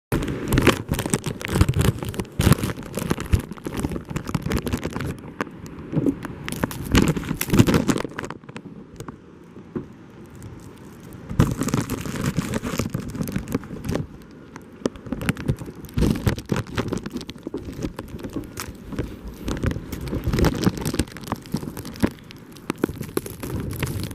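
Storm wind gusting against the microphone, with dense irregular crackling. It swells and eases several times, with quieter lulls near 9 s and 15 s.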